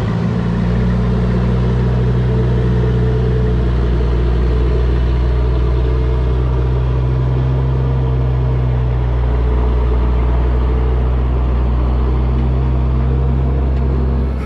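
Heavy diesel engine idling steadily with a deep, even rumble.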